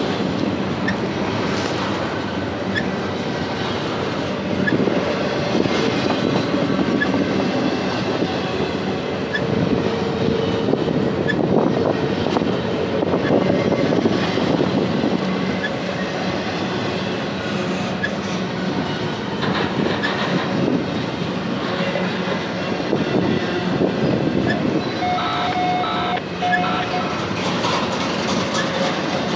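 Double-stack intermodal well cars of a freight train rolling past at track level: a steady rumble and clatter of steel wheels on the rails. A brief wheel squeal comes near the end.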